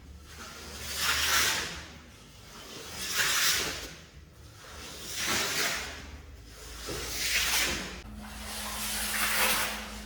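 Rug-cleaning strokes over a wet, muddy shag rug: a hissing, scrubbing swell about every two seconds, five in all, each rising and fading.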